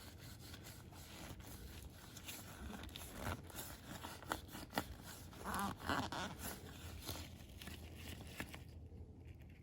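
Faint hand-work noises while an oil filter is being taken apart and cleaned: scattered small clicks and scrapes, with a louder rasping scrub about five and a half seconds in.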